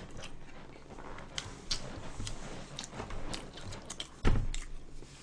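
Close-up eating sounds: scattered small clicks and chewing. There is one louder low thump a little past four seconds.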